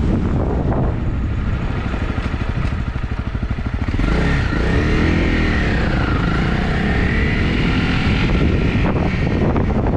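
Honda CRF250's single-cylinder four-stroke engine, pulsing at low revs for the first few seconds, then revving up and down from about four seconds in as the bike pulls away and runs on.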